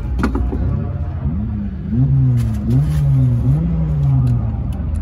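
Folkrace car engines revving up and easing off several times over a steady low engine rumble.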